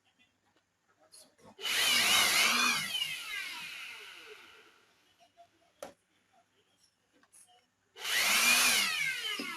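A small electric motor, two bursts about six seconds apart: each starts suddenly, runs at full speed for about a second, then spins down over a couple of seconds with a falling whine.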